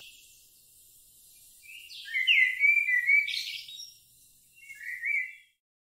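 Bird chirping: short, high, gliding chirps in two bursts, a longer run in the middle and a shorter one near the end.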